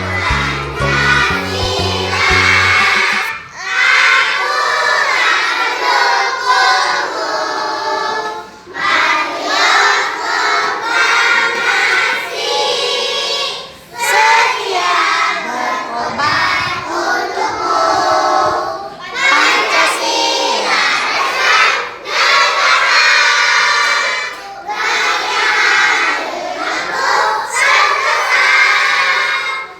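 Many young children's voices together, loud, in a classroom group. A children's music track ends about three seconds in.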